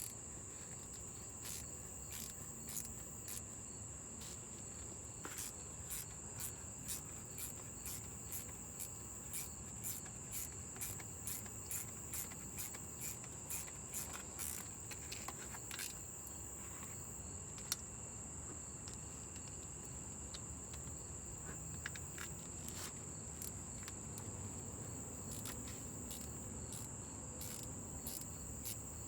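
Steady high-pitched trill of crickets, with a run of short clicks about two a second through the middle.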